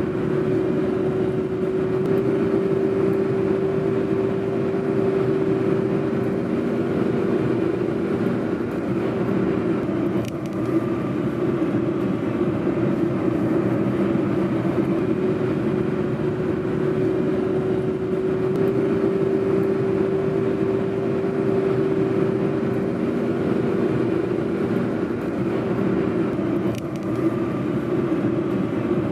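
Car driving steadily along a road: continuous engine and tyre noise with a constant hum.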